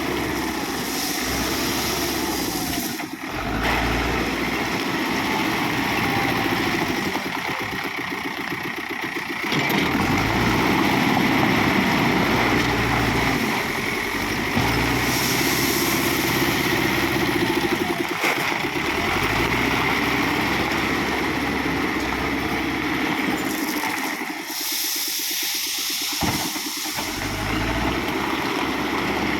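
Engine of an earth-moving machine running, its level and load changing every few seconds.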